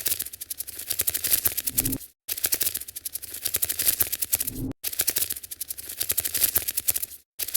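A spider-skittering sound effect of rapid dry clicking and scratching, many clicks a second, played as a loop: three runs of about two and a half seconds, each stopping abruptly for a brief silence.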